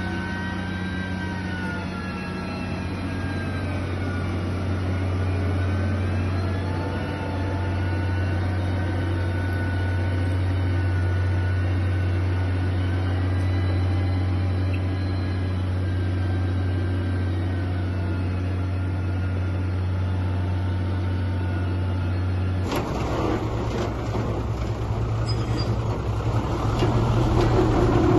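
Diesel engine of heavy construction machinery running steadily, its pitch wavering slightly. About four-fifths of the way through, it cuts abruptly to a different, rougher engine sound that grows louder near the end.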